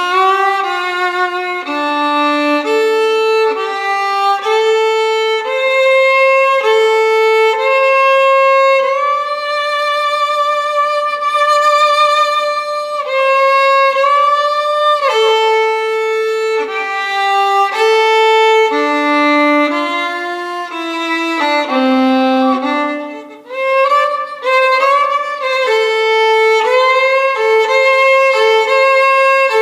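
Violin playing a slow, singing melody with vibrato, one note after another, with a long held note in the middle and a short break about two-thirds of the way through.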